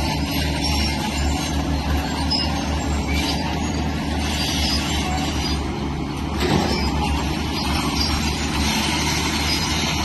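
Diesel engine of heavy earthmoving machinery running steadily under load, with a continuous scraping, grinding noise of metal and stone over it.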